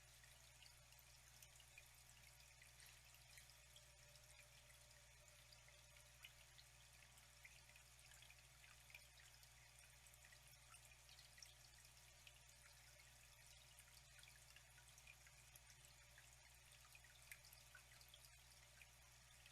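Faint, steady trickling water with many small drips and splashes.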